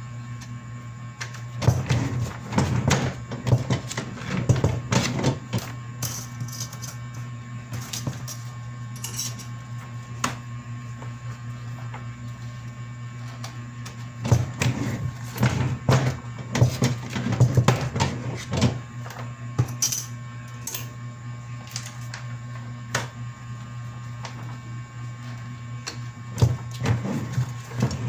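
A printer running: a steady low hum with bursts of rapid clattering clicks, three times, as pages feed through.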